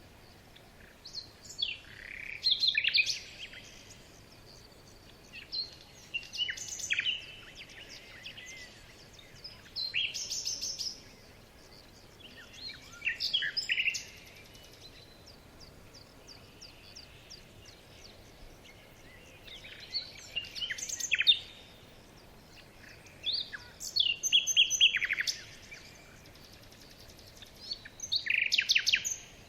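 A small bird singing short, high-pitched trilled phrases, about seven of them, repeated every few seconds over a faint background hiss.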